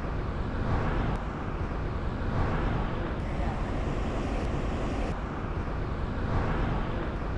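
Steady road traffic noise from cars passing along the street, an even rumble with no single standout event.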